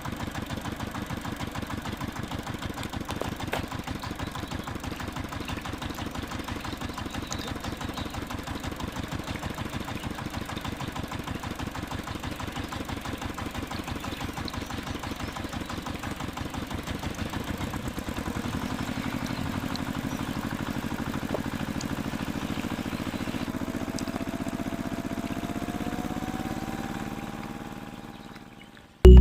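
A small engine running with a rapid, even putter. About two thirds of the way in it changes to a smoother hum with a faint rising whine, then fades out near the end.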